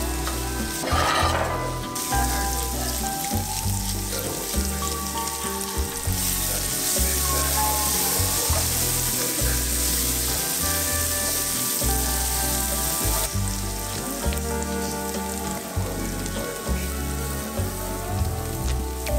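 Shrimp, then sun-dried tomatoes and garlic, sizzling in oil in a frying pan as they are stirred with a wooden spatula; the sizzle is strongest in the middle stretch. Soft background music with a steady beat plays underneath.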